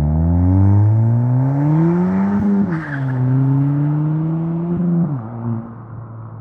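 Ford Fiesta ST's turbocharged 1.6-litre four-cylinder running through a Rev9 3-inch catback exhaust, accelerating with the note rising steadily. About two and a half seconds in the pitch drops sharply, as at a gear change, then climbs again more gently before falling away to a steady low note near the end.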